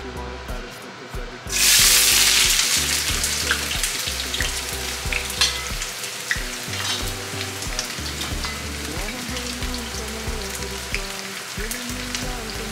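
Chopped onion dropped into hot oil in a frying pan about a second and a half in, setting off a sudden loud sizzle that settles into steady frying, with a few sharp utensil clicks. Background music with a steady beat plays underneath.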